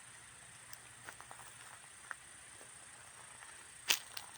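Quiet outdoor ambience: a steady high insect drone with a few faint ticks, and one sharper click near the end.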